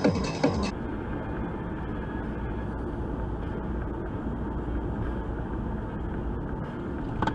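Background music with a beat cuts off within the first second, giving way to steady road and engine noise of a car driving, recorded by a dashcam. A short sharp sound comes near the end.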